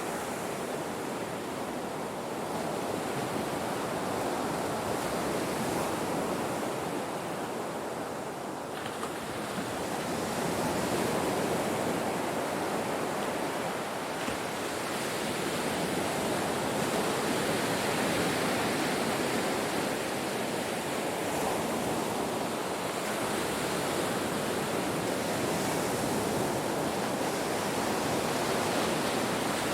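Ocean waves breaking on a shore, a continuous surf wash that swells and eases slowly as successive waves come in.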